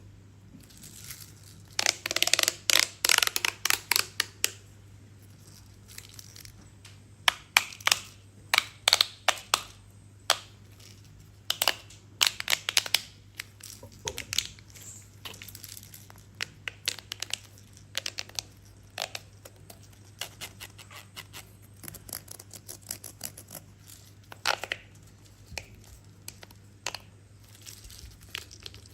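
Hands handling crinkly plastic: clusters of short, crisp clicks and crinkles coming in bursts with gaps between them, over a faint steady low hum.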